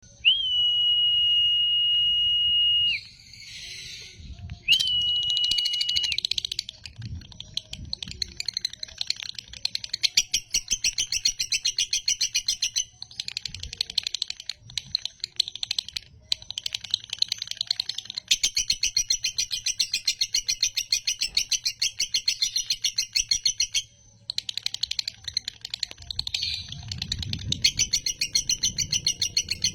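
Male lovebird in the 'konslet' style: a long, rapid, rhythmic chattering trill (ngekek) that runs on with only a brief break. It is preceded by two steady high whistle-like tones, the first about three seconds long and the second shorter.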